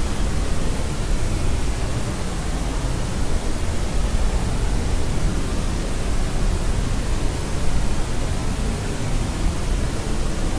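Steady synthetic sleep noise: an even, unchanging hiss with most of its weight in the low end, of the pink-noise kind.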